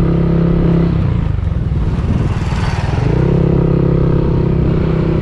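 Motor scooter engine running steadily while riding. About a second in, the engine note gives way to a rushing noise for about two seconds, then comes back at the same steady pitch.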